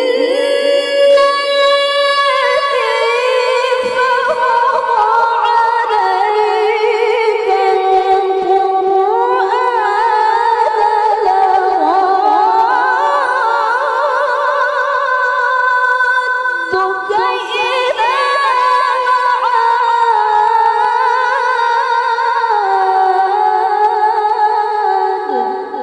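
A woman reciting the Qur'an in melodic tilawah style. Her high, clear voice holds long, ornamented phrases, with a short break about two thirds of the way through, and fades out at the end.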